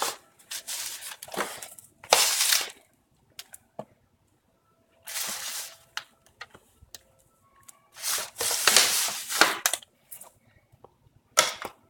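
Handfuls of loose dirt being scooped and packed around a bottle, several short bursts of crunching, rustling noise with quiet pauses between.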